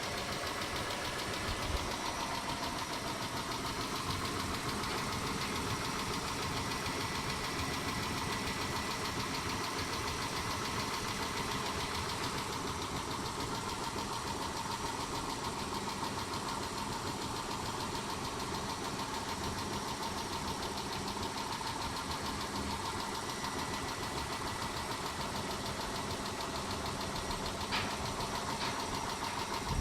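Mitsubishi 6G72 V6 engine idling steadily with a fast, even ticking, which the owner takes for noisy hydraulic lash adjusters (lifters). He is testing a Liqui Moly Hydro-Stössel-Additiv treatment against it, though he wonders whether the lifters are really the cause.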